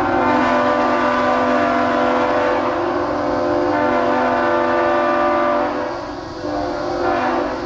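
Nathan Airchime K3HL three-chime air horn blowing a loud, steady chord, easing off briefly about six seconds in, sounding again, then dropping near the end.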